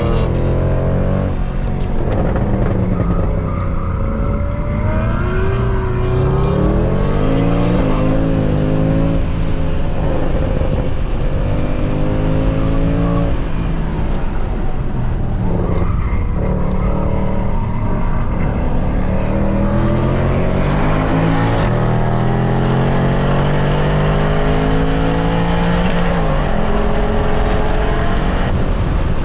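Mercedes C63 AMG's 6.2-litre V8, with its secondary catalytic converters and resonators deleted, running hard on a race track. It revs up through the range and drops back at each shift or lift, several times over.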